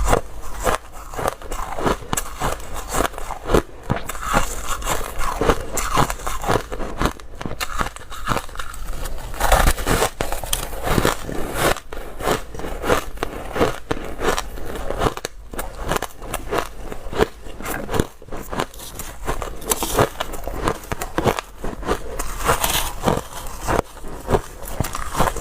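Dry, hard ice being bitten and chewed, a continuous run of loud, irregular crunches and crackles.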